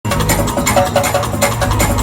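Drum kit played hard and fast, with cymbal strikes about four times a second over other instruments.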